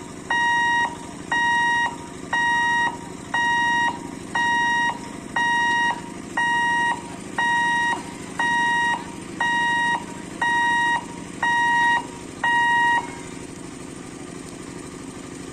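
Electronic warning beeper at a railway level-crossing gate: about thirteen beeps, one a second, each about half a second long on a single high tone, stopping near the end. A low steady hum runs underneath.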